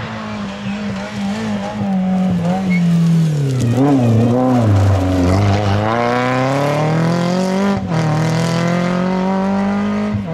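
Rally car engine working hard: revs fall with a few quick throttle blips about four seconds in, then climb steadily under acceleration, with a brief cut for a gear change near eight seconds.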